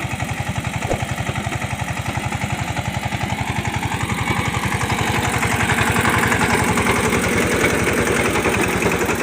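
Eicher 188 mini tractor's diesel engine chugging with an even pulse, working a rotovator through puddled mud. It grows louder and rises in pitch about four seconds in as it takes more revs or load.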